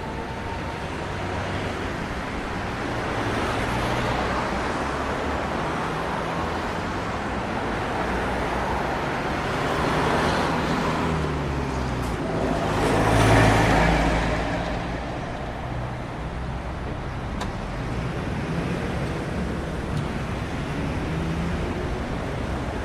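Steady road traffic noise as cars go by. One vehicle passes close about thirteen seconds in, swelling up and fading away.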